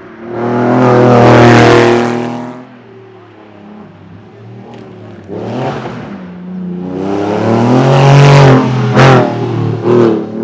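Hill climb racing car's engine running hard under full throttle, loud as it passes close, then falling away. It comes back in a second long surge with the engine note climbing, cut briefly twice near the end.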